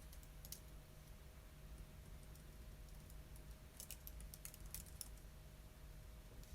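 Faint typing on a computer keyboard: a couple of keystrokes about half a second in, then a quick run of keystrokes about four seconds in.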